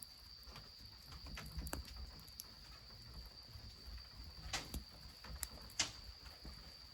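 Wood fire crackling under a goemon-buro bath, with scattered sharp pops and snaps, the loudest two near the end. A steady high-pitched insect trill runs underneath.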